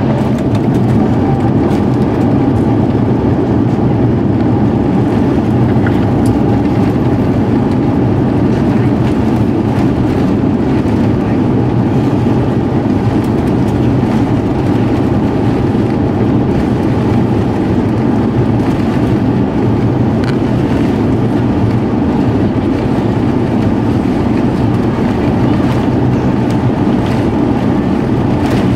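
Airbus A350-900 airliner heard from inside the cabin: a loud, steady, deep rumble of its engines and the airflow. The rumble swells in about the first second and then holds even.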